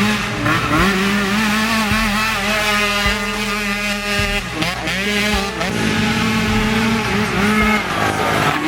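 Several racing ATV engines revving hard. Their pitch dips briefly several times at shifts or throttle lifts and climbs again, with more than one engine heard at once.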